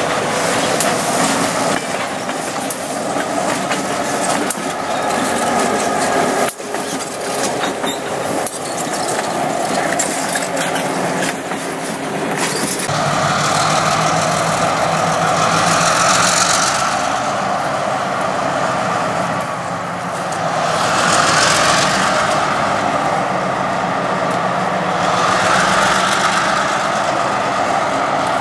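Freight train cars rolling past close by, wheels clacking over the rail joints. About halfway through the sound changes abruptly to the steadier running of an approaching train, swelling louder and softer every few seconds.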